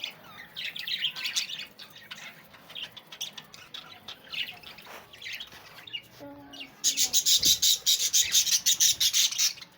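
Lovebirds chirping: scattered chirps, then about seven seconds in a loud, rapid, continuous chatter that stops just before the end.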